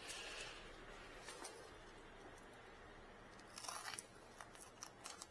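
Faint room hiss, then from about three and a half seconds in a few soft rustles and small clicks of small items being handled.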